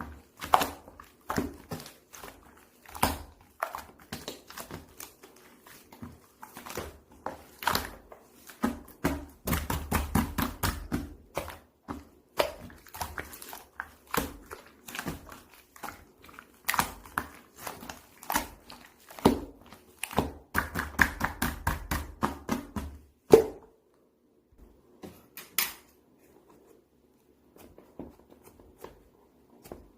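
Irregular clicks, taps and knocks of handling and movement in a small room, with a sharp knock about three-quarters of the way through, after which it goes mostly quiet.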